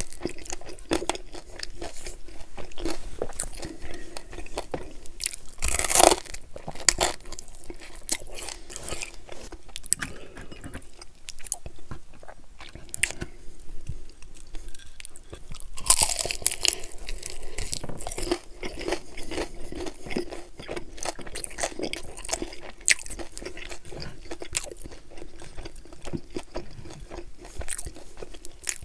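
Close-miked eating of chicken wings: a person biting and chewing, with crunches and clicks, louder crunching about six seconds in and again around sixteen seconds.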